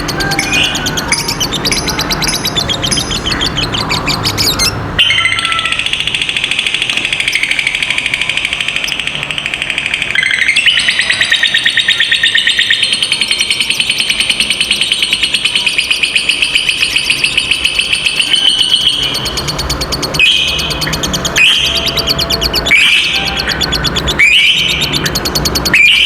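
Lovebird singing its long "ngekek" chatter. A rapid, unbroken trill starts about five seconds in and runs for about fourteen seconds, with short sharp chirps before and after it.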